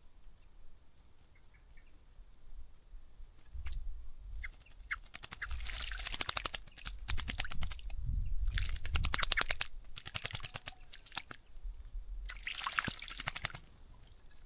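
Small birds bathing in a bird bath, flicking and fluttering their wings in the water in three bouts of rapid splashing, with a few faint chirps near the start.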